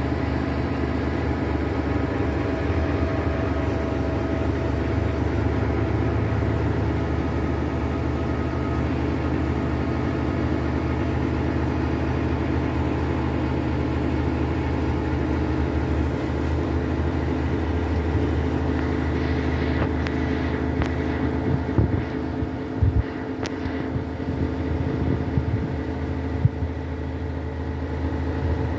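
Diesel engine of a Scania G-Series concrete pump truck running steadily, with a few sharp knocks near the end.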